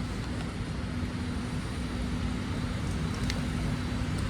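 BART train standing at a station platform: a steady hum with a constant low tone and a wash of air noise from the car's running equipment, and one faint tick about three seconds in.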